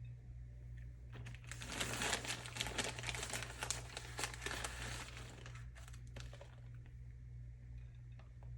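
Plastic food packaging crinkling and rustling as it is handled, for about five seconds starting a second in, over a low steady hum.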